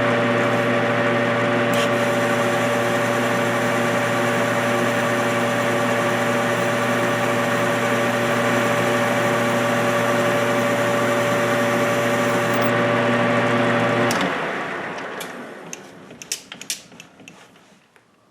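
Metal lathe running with a steady motor hum while turning aluminium with a freshly honed high-speed steel tool bit. About 14 seconds in the lathe is switched off and winds down, with a few light clicks near the end.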